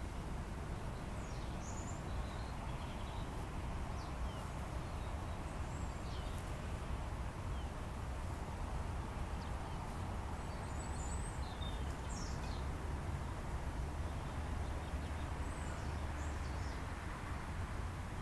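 Scattered short bird chirps over a steady low rumble of outdoor background noise.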